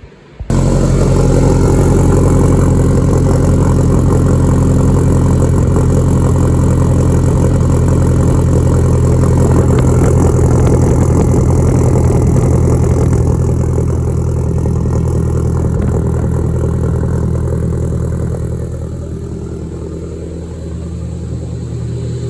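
Turbocharged Honda K20 four-cylinder engine of a 2002 Civic running steadily at idle. It comes in suddenly about half a second in and eases down a little around thirteen and eighteen seconds in.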